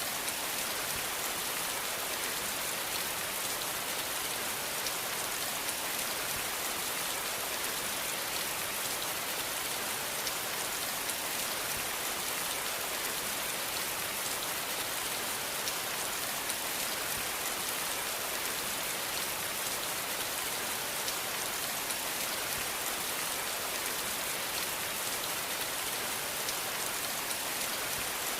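Steady rain falling, a dense even hiss with fine patter of drops hitting a surface.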